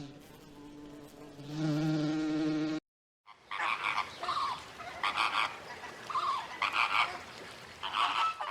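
A steady insect-like buzzing drone for the first few seconds, then after a brief silent gap a series of frog croaks, separate calls coming about once a second.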